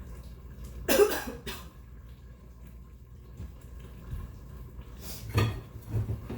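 A woman coughing, loudest about a second in, with further short coughs or knocks about five seconds in.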